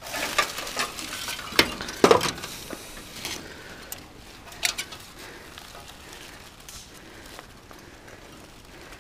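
Aluminium aircraft wreckage being handled: a few scattered light metallic clinks and knocks over faint rustling, mostly in the first half, then only a faint background.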